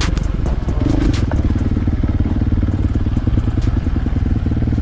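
Dirt bike engine running at a steady speed, its rapid firing pulses even throughout, with a few sharp clicks near the start.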